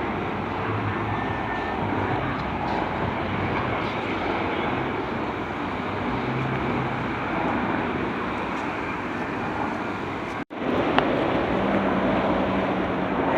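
Helicopter flying overhead: a steady engine and rotor drone. The sound drops out for an instant about ten seconds in, then carries on a little louder.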